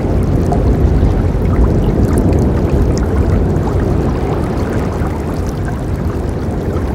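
Forest river flowing steadily: a low, even rush of water with scattered small splashes and gurgles over it.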